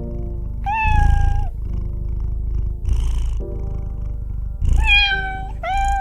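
An animal calling three times, high and drawn out, the last two calls close together, over background music.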